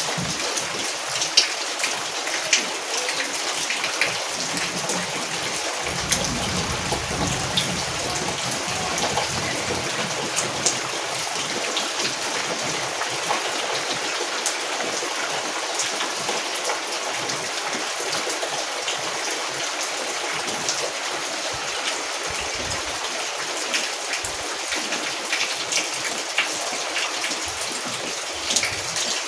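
Steady rain falling, an even hiss with many separate drops ticking through it, and a brief low rumble about six seconds in.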